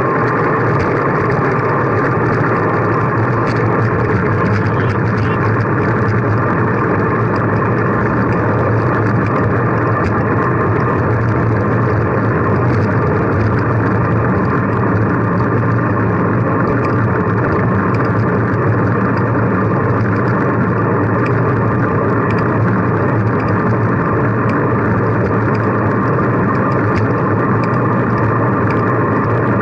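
Steady, loud rushing noise of wind and road while riding a bicycle, with a constant low hum underneath and no break or change.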